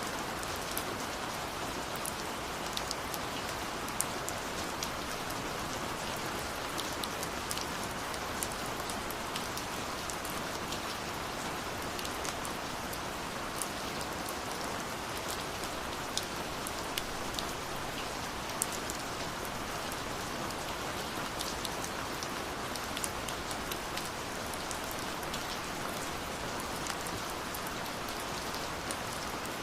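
Steady rush of falling water from a waterfall, with sharp, irregular pops and crackles of a wood fire scattered over it.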